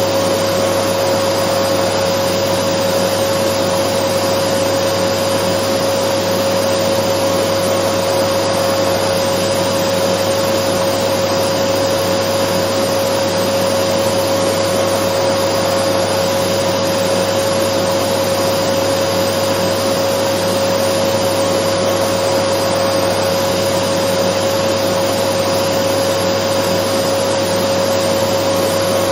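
Dyson vacuum cleaner running steadily: a constant airy rush with a steady motor whine, unchanging throughout, used as white noise to soothe a baby.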